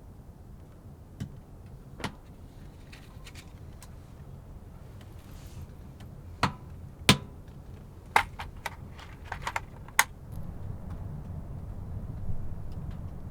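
A steady low rumble of strong wind, with about eight sharp clicks and knocks at irregular intervals, the loudest a little past halfway and a quick cluster soon after.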